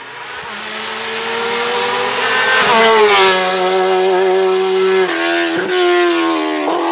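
Hillclimb race car's engine at full throttle, growing louder as it approaches. The note climbs for about two and a half seconds, then drops in a few steps as the car shifts or lifts.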